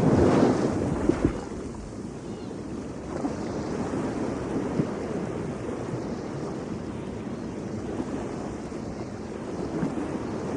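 Ocean surf with wind on the microphone: a wave breaks loudly in the first second or so, then a steady rushing wash of surf.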